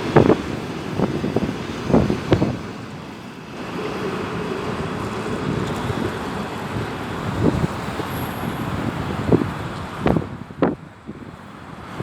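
Passenger train rolling past on jointed track: the coaches' wheels knock in uneven clusters over the rail joints against a steady rushing of wheels on rail, with a steady hum in the middle stretch.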